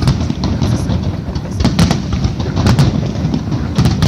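Fireworks starmine barrage: a continuous rumble of booming bursts with many sharp bangs and crackles in rapid succession.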